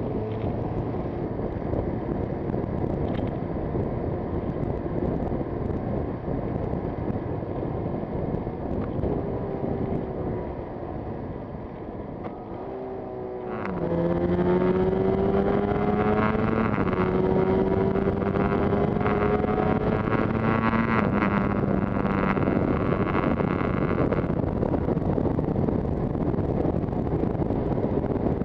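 Yamaha TZR250 two-stroke twin heard from the rider's seat against a steady rush of wind noise. About halfway through, the engine eases off, then pulls hard, its note climbing slowly with two upshifts, before settling back under the wind.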